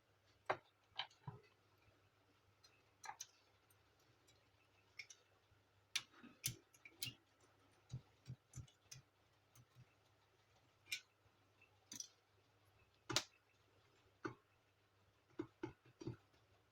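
Scattered small clicks and taps of tools and plastic parts being handled as a Canon imageCLASS MF4750 laser printer is taken apart to get at its fuser assembly. They come at uneven intervals, the loudest about thirteen seconds in.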